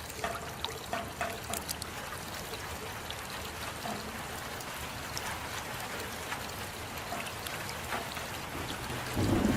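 Steady rain with water trickling and scattered drips ticking through it. Near the end, a louder, deeper rush sets in.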